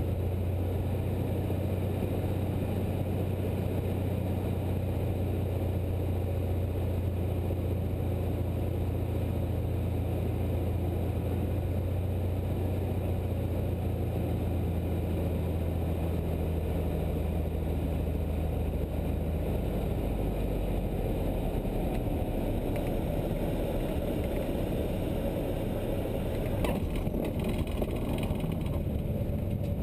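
A Cessna 172's engine and propeller drone steadily, as heard inside the cockpit. About two-thirds of the way through the engine note drops lower as power is reduced. A few light clicks follow near the end.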